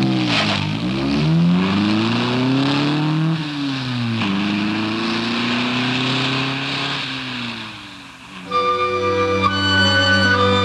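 Sports car engine pulling away and accelerating, its pitch climbing and dropping back several times as it changes gear, over tyre and wind noise. About eight seconds in it fades out and flute-led music takes over.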